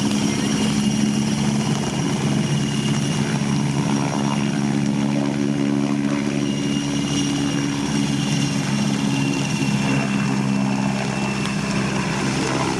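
Search-and-rescue helicopter's rotor and turbine engines running steadily: a continuous low drone with a thin, high turbine whine above it.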